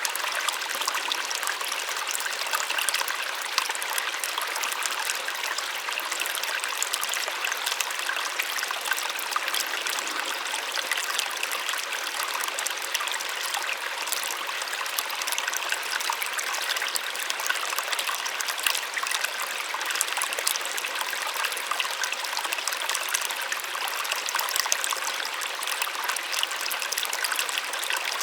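A small waterfall splashing steadily, a soft even rush of falling water with little low rumble.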